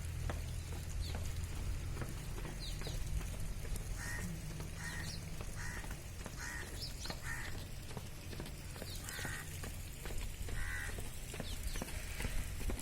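A bird calling about seven times at even intervals, roughly one call a second, over a steady low hum.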